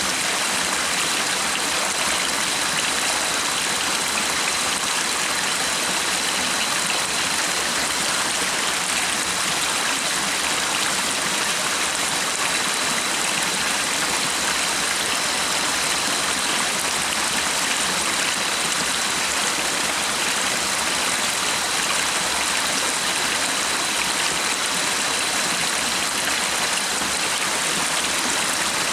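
Stream water flowing steadily, a constant rushing with no pauses, with a faint steady high tone above it.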